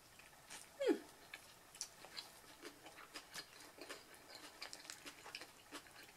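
Close-miked chewing of a grilled veggie wrap: soft wet mouth clicks and smacks scattered throughout. About a second in, a brief falling vocal hum.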